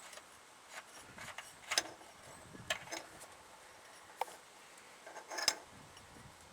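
Hand tools and metal parts of a 1984 Chevy 4x4 front hub being worked by hand: irregular light metallic clinks and short scrapes as the hub's nut is taken out.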